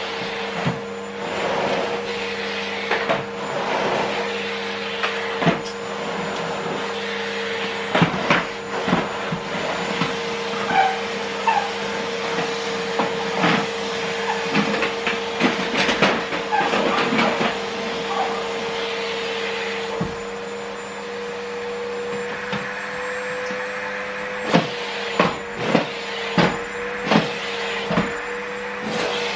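Vacuum cleaner running with a steady motor whine, broken by frequent clicks and knocks as the nozzle works over the floor; the motor's pitch shifts slightly and the level dips a little about two-thirds of the way through.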